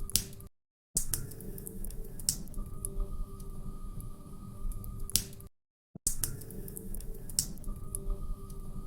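Wood fire burning in a fireplace: a steady low rumble with frequent crackles and a few sharp, loud pops. The sound cuts out completely for about half a second twice, once about half a second in and again about five and a half seconds in.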